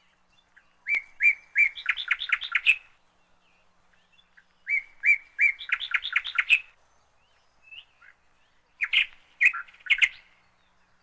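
A bird chirping in three short phrases, each a quick run of high notes, a few seconds apart.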